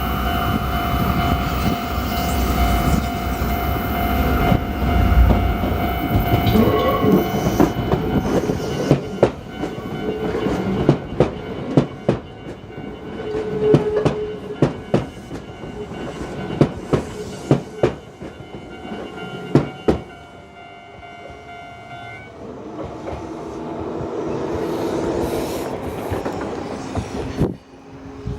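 Level-crossing warning bell ringing steadily while a Hakone Tozan Railway 1000-series train runs over the crossing. The train's heavy rumble comes first, then a long run of sharp wheel clacks over the rail joints. The crossing bell cuts off about three-quarters of the way through, once the train has cleared.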